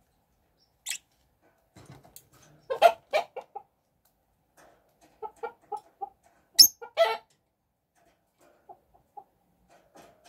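Chickens clucking in a few short runs of quick clucks, with a brief sharp noise about six and a half seconds in.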